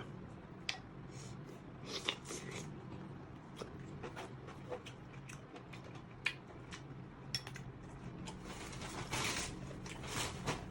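Scattered sharp clicks and cracks of thin snail shells being handled and broken apart by hand, with a longer noisy stretch about nine seconds in, over a faint steady low hum.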